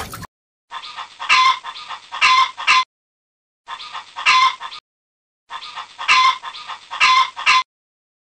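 Rooster calling in three bouts of several sharp notes each, with short silent gaps between them.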